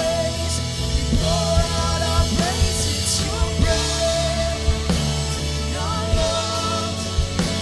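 Worship band music in a rock style: drums keep a steady beat under a melodic line that slides and wavers, with no sung words.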